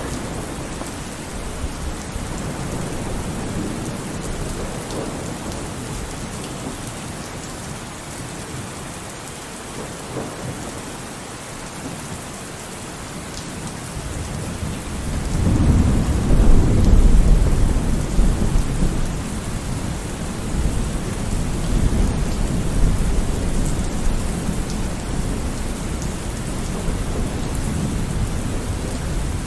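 Steady rain with a long roll of thunder that swells in about halfway through, peaks a couple of seconds later and slowly rumbles away.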